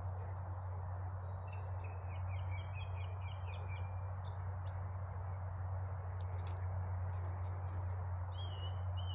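Small songbirds calling: a quick run of short repeated chirps, then a few sliding whistled notes, and another whistled phrase near the end. Under them a steady low hum and hiss, with scattered sharp clicks.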